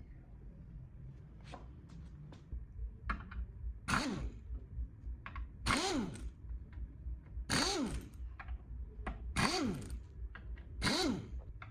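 Repeated scraping strokes of a hand tool on metal, about one every one and a half to two seconds, each with a squeal that rises then falls in pitch, with light clicks and taps between strokes.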